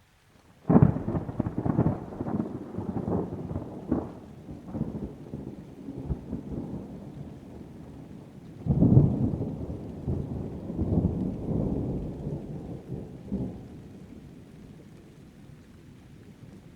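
Thunder: a sudden sharp clap about a second in breaks into a crackling, rumbling peal. A second loud roll swells up near nine seconds and rumbles on for several seconds before fading away.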